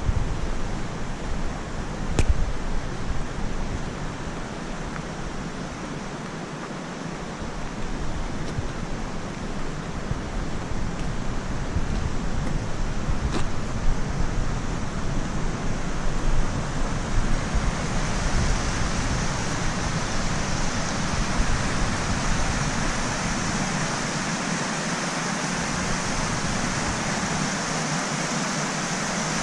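Waterfall rushing steadily. It grows fuller and more hissing about two-thirds of the way through.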